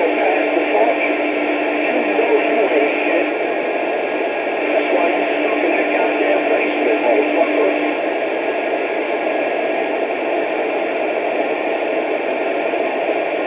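CB radio receiver hissing with steady open-channel static and hash, with a steady low tone under it that stops about eight seconds in.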